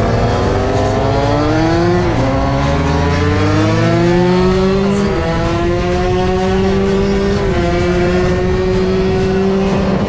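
Kitted 80cc two-stroke moped engine accelerating hard through the gears. Its pitch climbs, drops at a gear change about two seconds in and again about five seconds in, then rises slowly and holds high.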